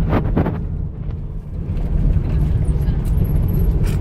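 Car's road and engine noise heard while driving, a steady low rumble that eases briefly about a second in, with a few short sharp knocks near the start and the end.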